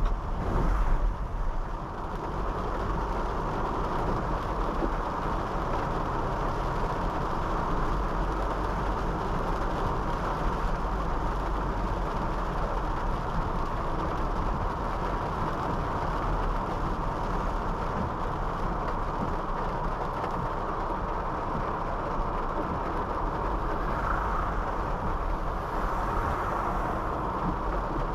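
Honda City 5th Gen sedan driving along on a wet road: steady engine and tyre noise with a constant hiss.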